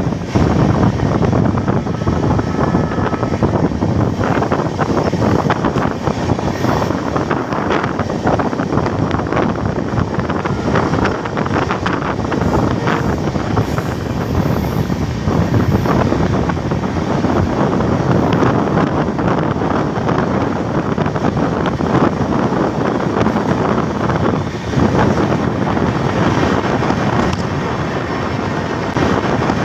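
Steady running noise of a moving train heard from on board: wheels rolling on the rails with wind rushing past the microphone.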